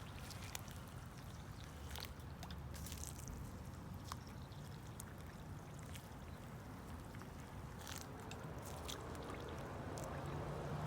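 Water being poured onto potting soil in tall plant pots: a faint, steady trickle with a few light clicks scattered through it.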